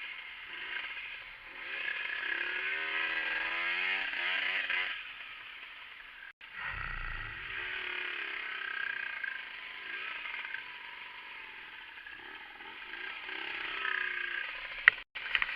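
Vehicle engine and road noise, with the engine revving up, its pitch rising, about three seconds in. The sound breaks off sharply about six seconds in, then low rumbling and more engine and road noise follow, with a couple of sharp clicks near the end.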